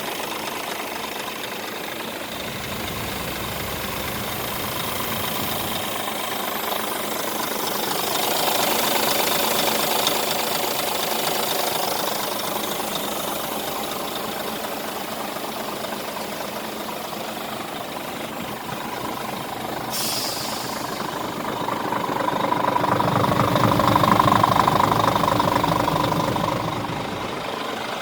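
Scania R 450 truck's 13-litre straight-six diesel running at idle, with its engine note swelling up twice: once about a third of the way in and more strongly near the end.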